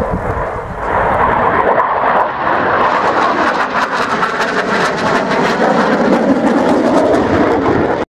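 Eurofighter Typhoon's twin EJ200 turbofans in flight, a loud jet roar that swells over about the first second and stays loud until it cuts off abruptly near the end.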